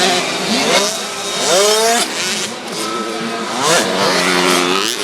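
65cc two-stroke motocross bikes racing, their engines revving up and dropping back several times as they shift and brake.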